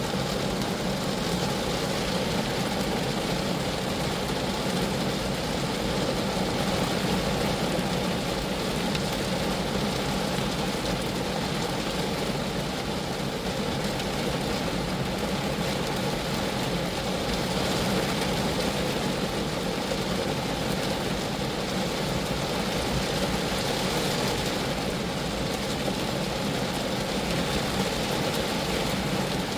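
Steady rain falling on a Geo Metro, an even patter on the car's body and glass with a low drone underneath.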